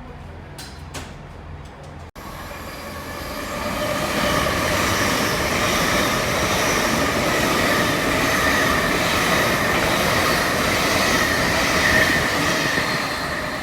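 Train running on the rails: a steady loud rush that builds over a couple of seconds, with high, steady whining and squealing tones over it. Before it, about two seconds of quieter sound with a couple of clicks.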